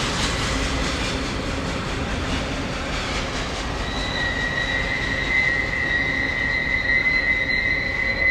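Train rolling past with steady wheel-on-rail noise; about halfway through, a high, steady steel wheel squeal comes in and holds.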